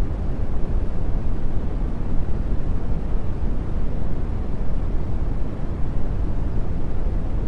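Steady brown noise: a deep, even rushing hiss, strongest in the bass, that does not change.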